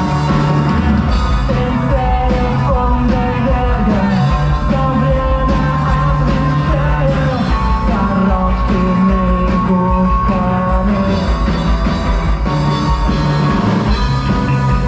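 Rock band playing live, with drums, a heavy low end, sustained pitched instrument lines and a singing voice.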